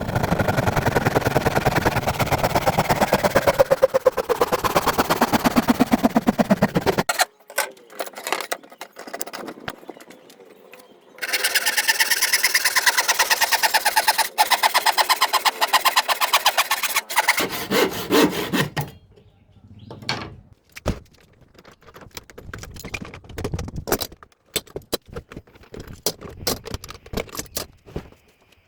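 Power tool working wood in two long runs, the first with a falling pitch, followed by scattered knocks and clicks.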